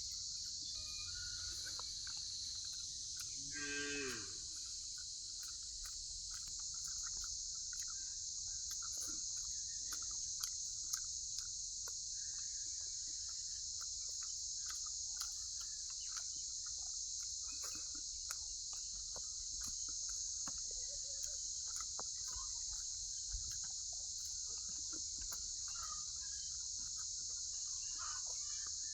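A steady high-pitched hiss with one drawn-out animal call about four seconds in and scattered small clicks.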